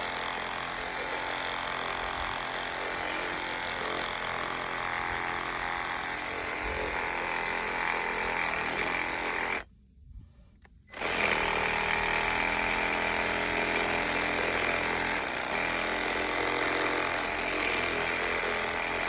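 Chainsaw running steadily while cutting firewood, breaking off abruptly for about a second midway and then carrying on a little louder.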